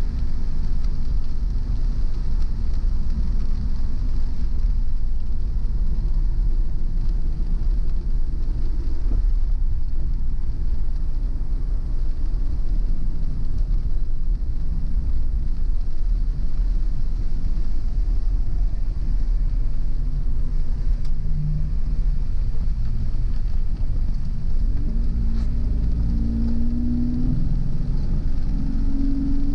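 Car being driven: a steady low rumble of engine and tyres, with the engine note rising near the end as the car speeds up.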